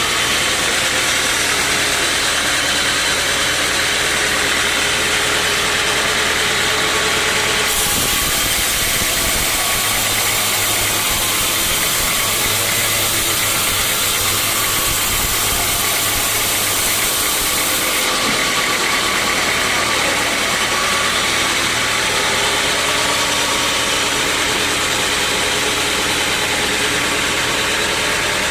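Sawmill saw running steadily, with a harsher, hissier sound for about ten seconds in the middle while the blade cuts through a teak log.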